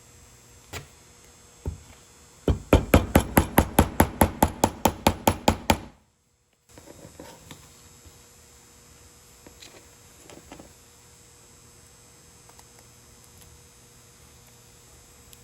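A rapid run of about twenty sharp knocks, roughly six a second, like quick hammer taps, stopping suddenly; then a few light clicks and handling sounds.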